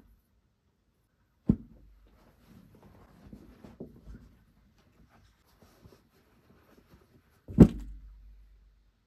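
Two sharp thumps about six seconds apart, the second the louder, with faint handling and rustling noises between them.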